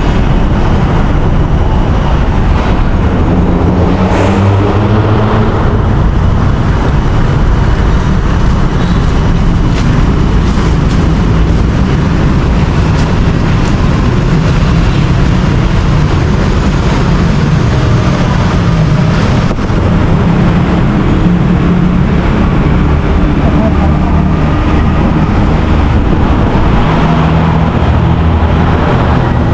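Steady, loud low rumble of a moving vehicle, with a faint wavering engine drone underneath.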